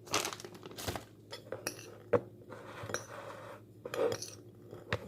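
A spoon clinking and scraping against a mixing bowl as a filling is stirred, with several separate knocks at irregular intervals.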